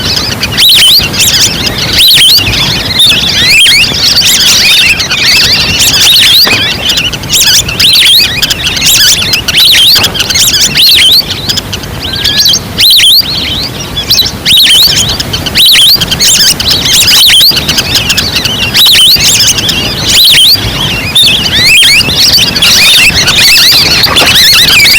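Recorded wild duck calls played as a hunting lure: a dense flock of short, high calls overlapping without a break, each gliding quickly up or down in pitch. Loud throughout.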